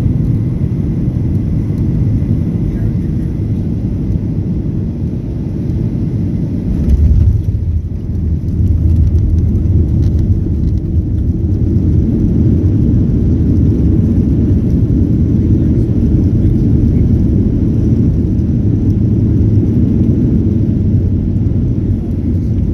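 Boeing 737-800 heard from inside the cabin: a steady, loud low rumble, with a heavy low thump about seven seconds in.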